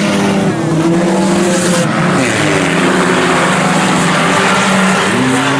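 A pack of IMCA Sport Compact four-cylinder race cars running hard around the track, several engines heard at once, their pitches stepping up and down as they go.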